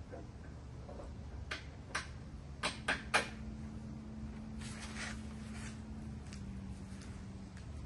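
A handful of sharp clicks and knocks from tools and parts being handled, five in under two seconds, then a softer scraping rustle.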